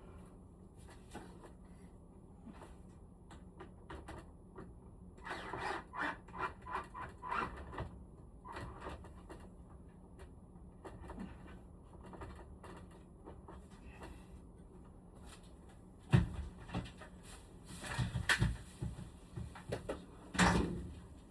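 Intermittent clicks, rattles and knocks of parts being handled while a room air conditioner is cleaned, with the sharpest knocks in the last few seconds.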